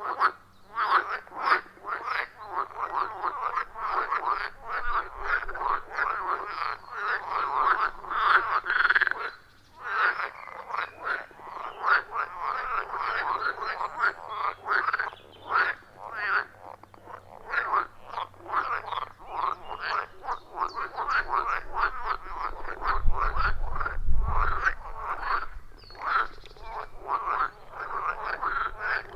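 A chorus of frogs calling from a pond: many overlapping, rapid pulsed croaks with no break, easing briefly about a third of the way in. About three-quarters through, a brief low rumble sits under the calls.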